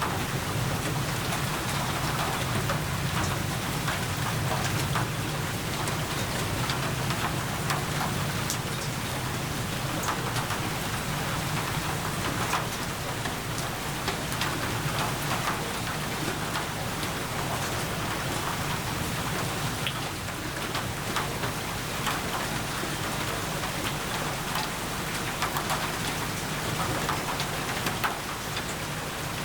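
Steady rainfall, with many individual drops ticking on a surface and a low rumble underneath that is stronger in the first half.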